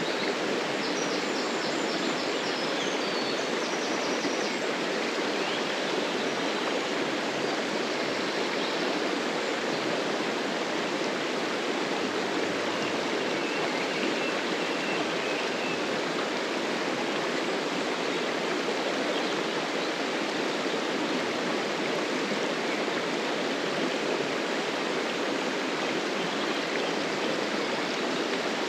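River water flowing, a steady rushing that does not change. A few faint high chirps come through about a second in and again around twelve seconds in.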